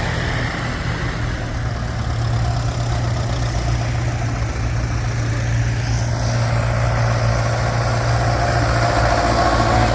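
Vintage tractor engines running as the tractors pull away one after another: a steady low drone, with another engine's higher note joining about two-thirds of the way through.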